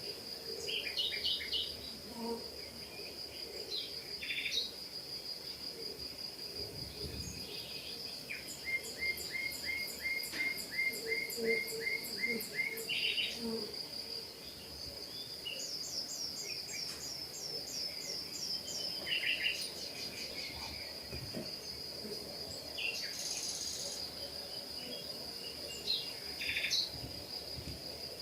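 Several songbirds singing in quick chirping runs and short down-slurred note series over a continuous high, pulsing trill.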